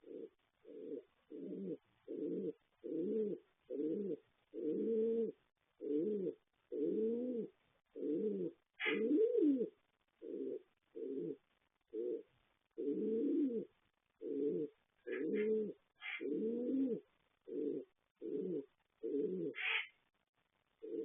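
A bird cooing in a long series of short, low notes, a little more than one a second, with a few brief higher chirps among them.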